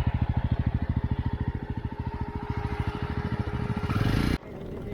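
Motorcycle engine running with an even pulsing beat. It picks up briefly near the end, then cuts off abruptly and a quieter running sound follows.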